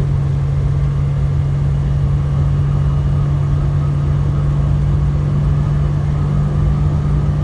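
A truck engine running with a steady low drone and rumble, heard from inside the cab.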